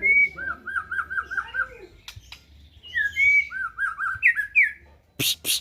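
White-rumped shama (black-tailed murai batu) singing clear whistled phrases: a high note and then a quick run of about six repeated down-slurred notes, delivered twice, followed by two higher notes. Near the end come a few short, loud, harsh noisy bursts.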